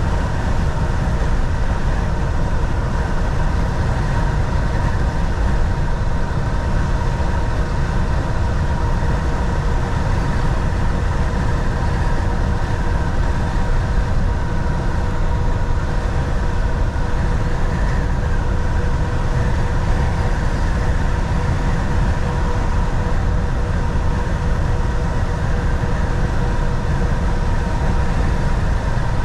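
Volvo VNL 760 semi truck heard from inside the cab at driving speed: a steady low engine drone and road rumble with a couple of steady hums above it, unchanging throughout.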